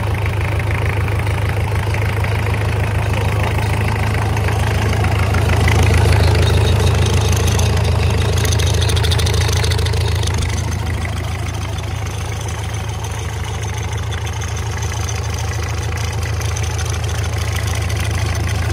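Isuzu 4JG2 four-cylinder diesel engine idling steadily on a test run, a deep low hum. It gets a little louder around six seconds in and eases back after about ten seconds.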